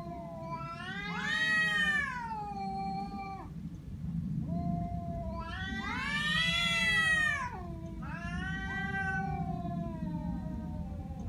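Domestic cat's angry threat yowl (caterwaul), a long drawn-out wail that rises and falls in slow swells, loudest about two seconds in and again about six to seven seconds in.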